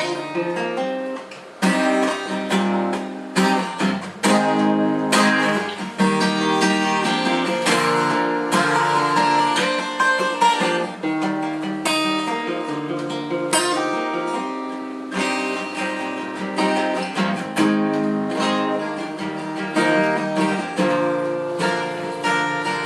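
Acoustic guitar strumming chords in a steady rhythm: the instrumental introduction of a song, before the vocals come in.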